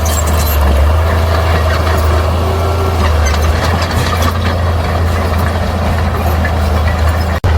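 Bulldozer's diesel engine running steadily under load, a constant low drone. The sound cuts out for an instant near the end.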